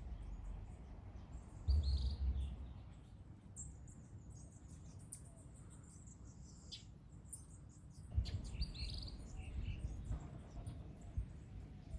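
Birds chirping outdoors, with short calls repeating every few seconds over a low rumble that swells twice.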